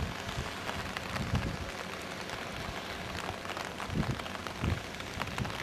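Rain falling steadily: a dense hiss peppered with many small, sharp drop patters. A few brief low thuds break it at the start and again about four seconds in.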